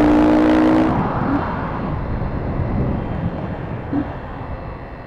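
Motorcycle engine running at steady revs, then backed off about a second in, its note falling away to a low rumble with wind noise.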